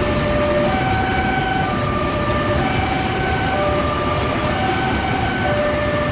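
Container freight train hauled by a CC 203 diesel-electric locomotive running past with a steady, loud rumble. Over it, a string of held tones changes pitch about once a second.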